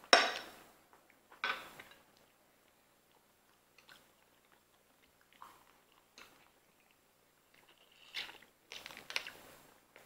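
Close-up eating sounds: mouths biting and chewing lobster meat and garlic noodles, in short bursts, the loudest right at the start, another about a second and a half in, and a run of them near the end.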